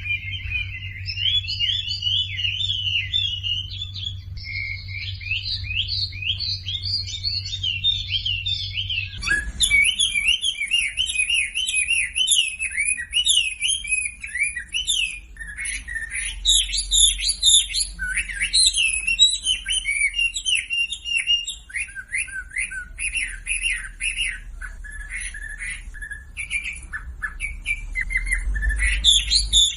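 Wambi songbird singing continuously, a fast run of varied chirping and trilling notes. This is a masteran recording meant to prompt caged wambi birds to sing. About nine seconds in, a low hum drops out and a thin, high-pitched twittering joins above the song.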